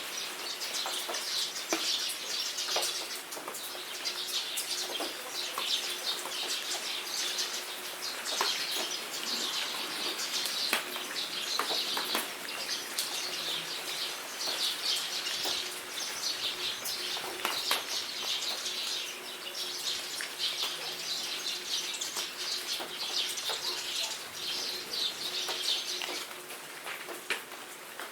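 Rain dripping and pattering in a jungle while birds sing in dense, repeated bursts of high chirping; the birdsong stops near the end.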